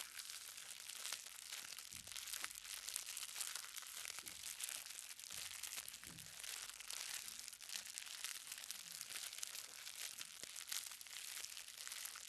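Light rain, many small drops pattering steadily on hard ground in a dense, fine crackle.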